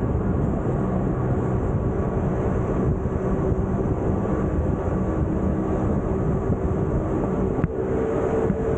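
Rack-railway (cogwheel) mountain train running steadily: a continuous mechanical rumble with several held humming tones. A single short click cuts through near the end.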